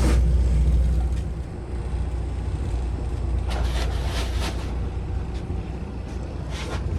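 Semi truck's diesel engine running with a steady low rumble, heard from inside the cab. The rumble eases off about a second in and settles to a lower, even run.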